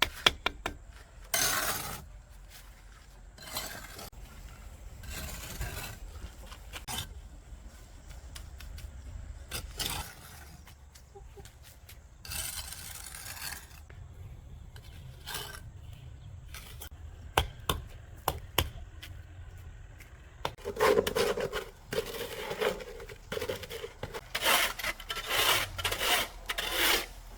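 Irregular scraping and rubbing strokes, with a few sharp knocks, thicker toward the end.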